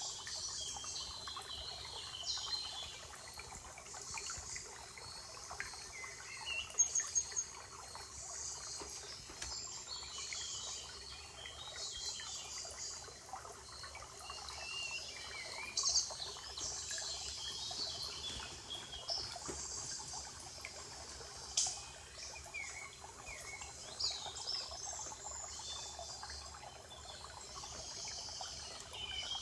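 Forest songbirds singing and calling, many short chirps and warbled phrases overlapping over a steady hiss, with a few sharp clicks, the loudest about seven seconds in.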